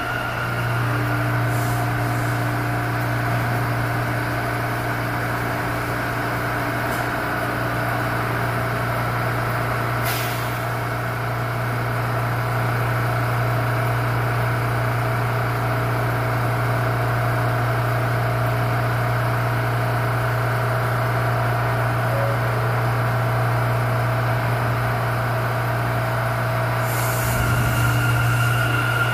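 New York City subway train standing at the platform, its equipment giving a steady low hum with a faint high tone. There is a sharp click about ten seconds in, and a burst of hiss near the end.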